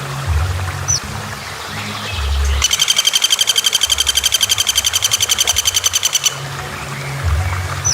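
A bird's fast rattling trill of high, sharp notes, about eleven a second, starting about two and a half seconds in and lasting nearly four seconds, over a low hum.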